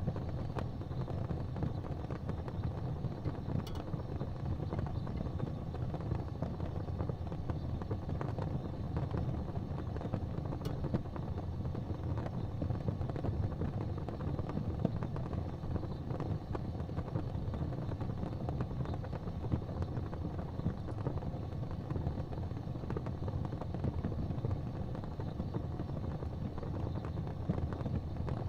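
Fireplace fire burning: a steady low rumble with a couple of faint crackles.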